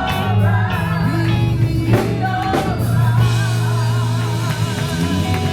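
Live gospel band playing, with bass, drums and guitar under a wavering sung or played melody line.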